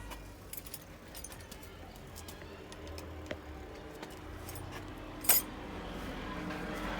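Light metallic clinking and jingling of small metal objects, with scattered faint clicks and one louder sharp click about five seconds in.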